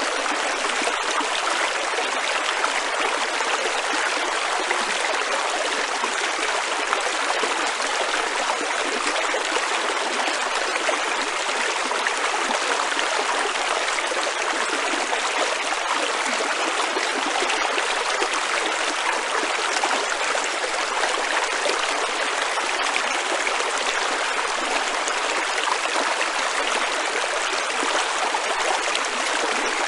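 A shallow stream running steadily over rocks.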